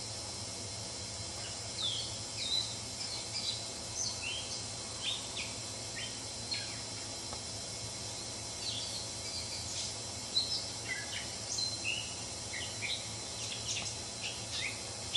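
Wild birds chirping in a meadow: many short, high chirps and calls, some sliding in pitch, starting about two seconds in and scattered over a steady outdoor hiss.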